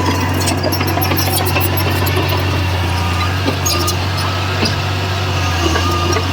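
Heavy diesel engine of earthmoving machinery running at a steady pitch, with scattered light clicks over it.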